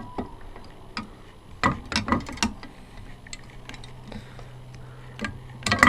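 Small metal parts and hand tools clicking and clinking while a gas scooter's rear chain and chain adjuster are fitted: a cluster of sharp clicks about two seconds in and another near the end, over a faint steady low hum.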